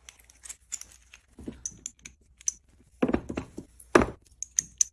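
Steel crimping dies of a hydraulic hose crimper clinking and clattering as they are handled and sorted in their case, with a few heavier knocks about three to four seconds in.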